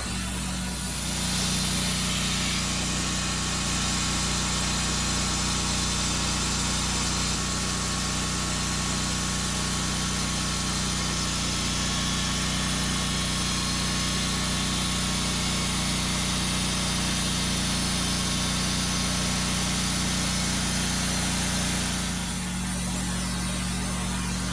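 Engine of a Norwood Lumbermate Mark IV bandsaw mill running steadily, with the hiss of the band blade cutting through an eastern red cedar log from about a second in. Near the end the cutting sound stops and the engine runs on alone.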